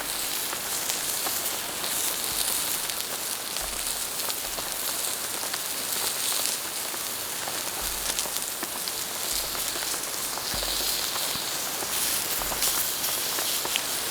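Steady rain falling, with many fine drops ticking on surfaces.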